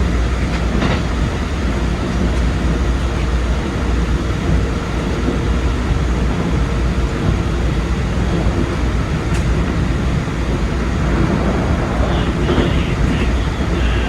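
Keikyu 2100 series electric train running at speed, a steady rumble of wheels on rail and motor noise heard from the front cab.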